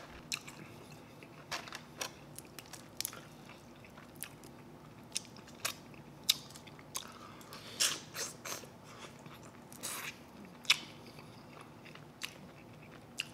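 Close-miked eating of bone-in chicken wings: chewing and biting, heard as irregular sharp mouth clicks and smacks.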